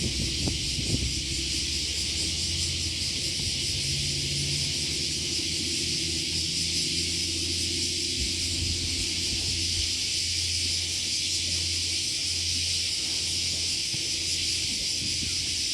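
A steady chorus of cicadas, unbroken, with a low steady hum underneath.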